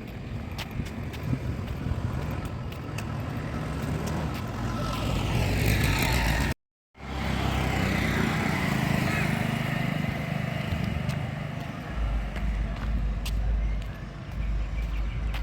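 Road traffic running close by: vehicles pass one after another, with louder passes near the middle and a heavier low rumble near the end. The sound cuts out completely for a moment about halfway through.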